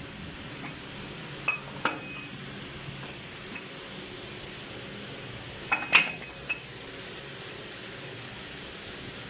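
Pieces of metal clinking against each other with a short ring: two clinks about a second and a half in, then a louder cluster of clinks around six seconds and a single one just after.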